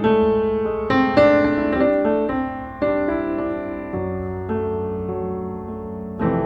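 Background music: a gentle solo piano melody, single struck notes ringing out and fading over low sustained bass notes.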